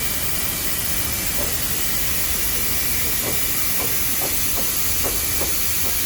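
A loud, steady hiss with a faint, high, steady whine running through it.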